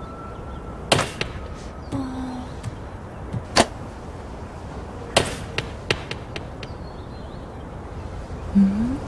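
Scattered sharp clicks and knocks, about a dozen, over a steady low background hum, with a short low rising tone near the end.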